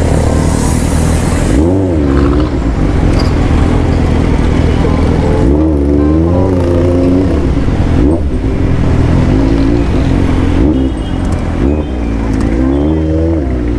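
Suzuki GSR750's inline-four engine revving, its pitch rising and falling in repeated blips every few seconds over a steady low running note.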